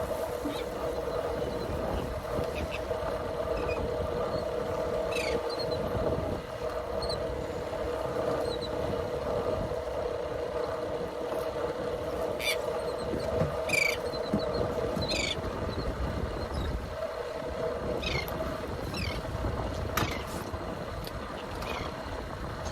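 Small fishing boat on the water offshore: a steady mechanical hum from the boat under a constant wash of water and wind, with short sharp knocks or slaps every second or so through the middle of the stretch.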